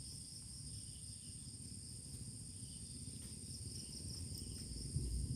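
Night chorus of crickets shrilling steadily in high, continuous tones, over a low background rumble that grows louder near the end.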